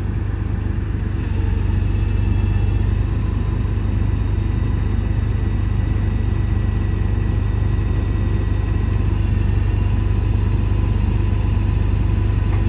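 Tow truck's engine running steadily at idle, with a faint steady whine joining about a second in.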